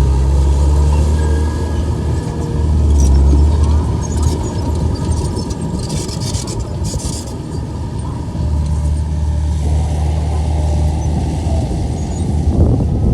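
Komatsu bulldozer's diesel engine running steadily, its low drone easing off for a few seconds in the middle, when a spell of high rattling and crackling is heard.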